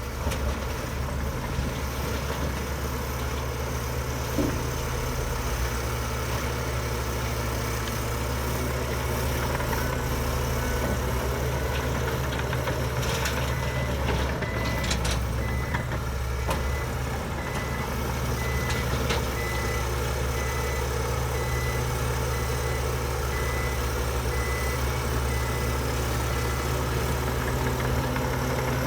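Heavy diesel earthmoving machinery running steadily, with a reversing alarm beeping in a regular series from about halfway through until near the end, the sign of a machine backing up.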